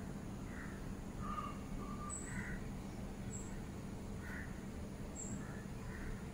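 Birds calling outside in short, scattered calls, with a few brief high chirps, over a steady low hum.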